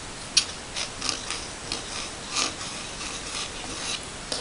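A letter opener's tip traced over paper: a run of short, irregular scratching strokes, like a pen scratching on paper.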